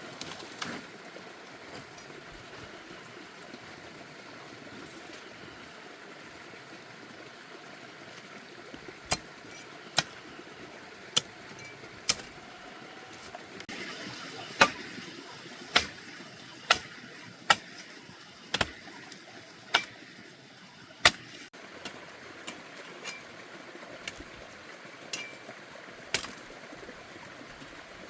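A dozen or so sharp knocks, roughly one a second, over a steady outdoor hiss.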